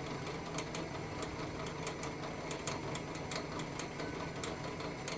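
Electric drill running steadily with a countersink bit cutting into an aluminum plate, with scattered sharp clicks from the cutter.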